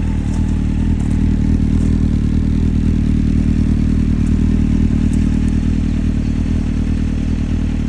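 1995 Honda CBR600 F3's inline-four engine idling steadily, warming up after a cold start.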